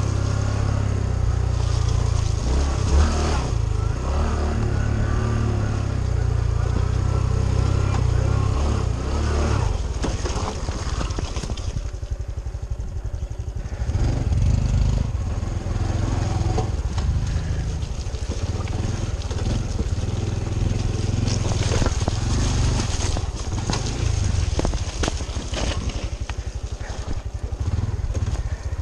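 Honda CT125 Trail 125's air-cooled single-cylinder four-stroke engine running as the bike is ridden along a rough dirt trail. The throttle eases off for a couple of seconds about twelve seconds in. Scattered knocks come from the ride over rough ground.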